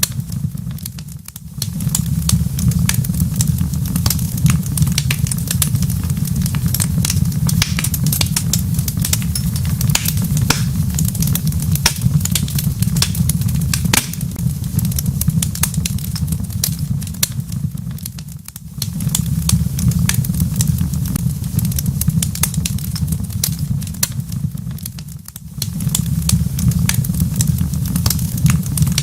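Wood fire crackling in a fireplace, with frequent sharp pops and snaps over a steady low rumble. The rumble dips briefly about a second in, again near 18 seconds and near 25 seconds.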